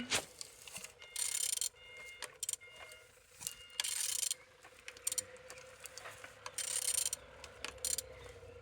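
Used 10V15 engine being turned over by hand, with three bursts of rapid mechanical clicking about every two and a half seconds; it turns freely, a sign the engine is not seized.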